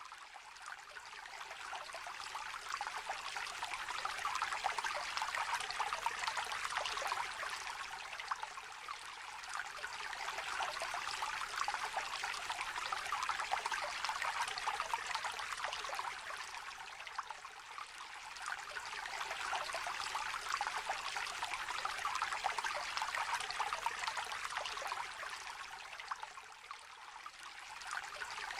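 Small river trickling gently, a steady rush of running water that swells and eases every several seconds.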